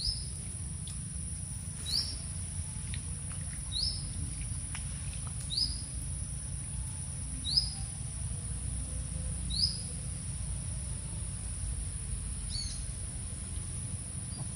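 A bird repeating a short rising chirp about every two seconds, with a double chirp near the end, over a steady low rumble and a constant high hiss.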